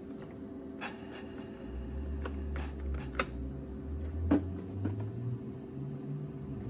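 A few sharp metallic clicks and knocks of parts being handled, the loudest about four seconds in, over the steady hum of a fan, with a stretch of hiss in the first half.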